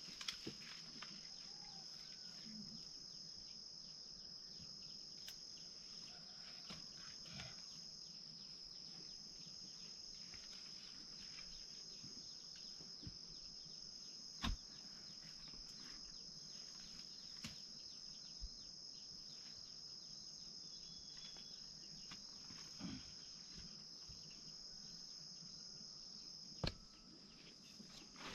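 Insects giving a steady, high, continuous buzz that stops suddenly near the end, with a few faint knocks scattered through it.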